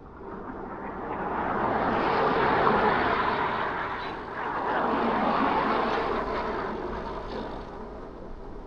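Road vehicle noise with no clear pitch, swelling twice, about two and a half and five and a half seconds in, then fading, like traffic passing.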